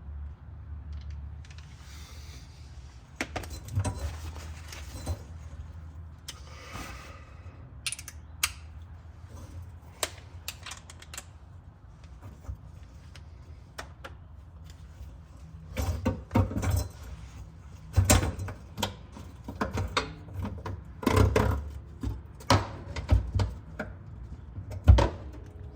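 Hand tools working on metal car parts: irregular clicks, clanks and knocks, thicker and louder in the second half, with two short hisses about two and seven seconds in.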